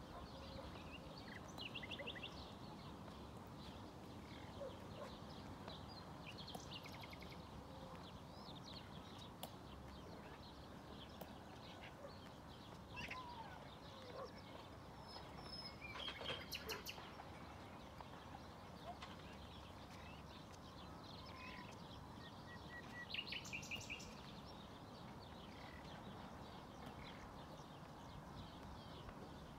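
Faint outdoor background with birds chirping now and then in short, quick runs; the loudest run comes about halfway and another a few seconds before the end.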